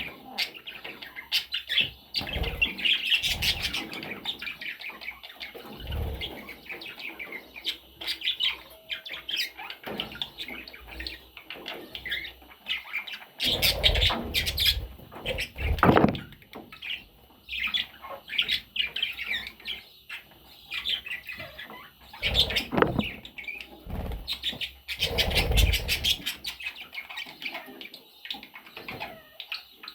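Pet budgerigars chattering and chirping continuously, with a few louder short bursts of noise in between.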